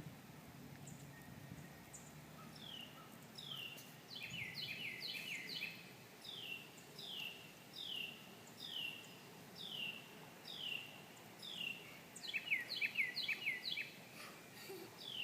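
A bird calling over and over with short downward-slurred chirps, roughly one every two-thirds of a second, breaking into quicker runs of chirps twice.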